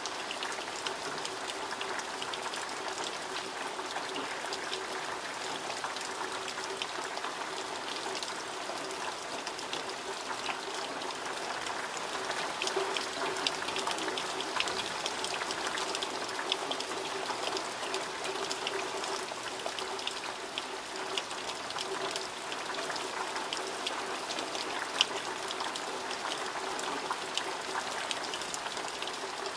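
Heavy rain falling steadily: a dense hiss made of many separate drops tapping, a little heavier for a few seconds about halfway through.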